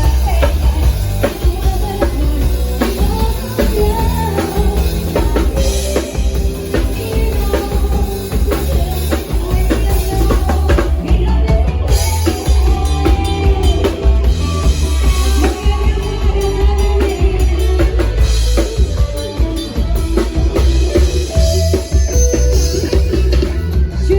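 Band music played loud through a PA sound system, with a heavy bass and a drum kit under a melody line.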